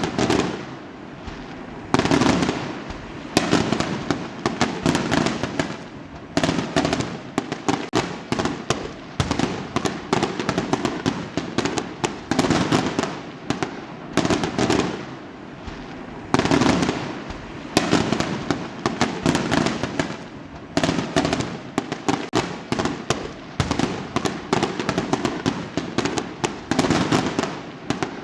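Fireworks bursting one after another: sharp bangs, each followed by dense crackling, with a new volley every second or two.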